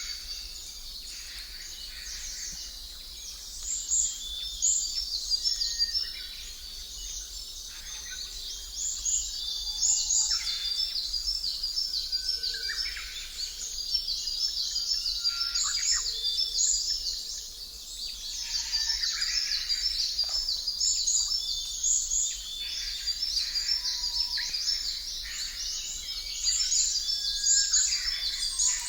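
Birds chirping and singing, with many short, overlapping calls repeating throughout, over a faint steady low hum.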